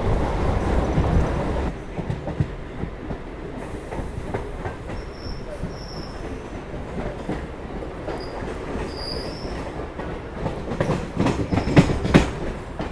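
EMU local train running at speed, heard from on board: a steady rumble of wheels on rail, louder for the first couple of seconds and then dropping sharply. A few short high wheel squeals come in the middle, and a run of sharp rail-joint clacks near the end.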